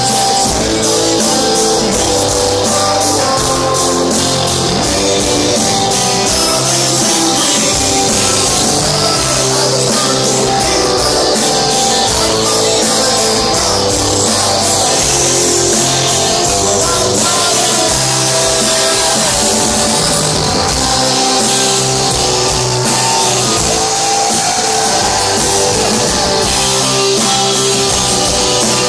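Rock band playing live, with guitars and drum kit, loud and steady.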